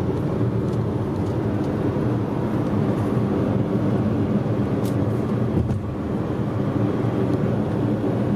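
Steady road and engine noise of a moving car, heard inside the cabin as it drives over a bridge.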